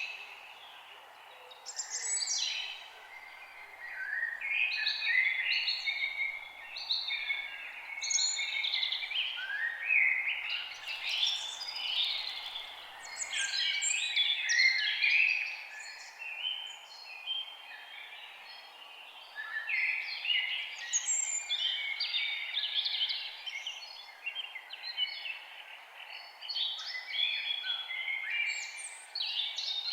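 Several forest birds singing and chirping at once, short overlapping phrases and trills coming one after another, over a steady background hiss.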